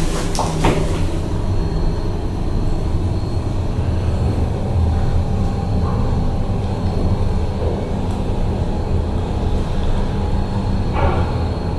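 KONE MiniSpace traction elevator running: a steady low hum and rumble with a faint high-pitched whine, with a few light clicks about half a second in.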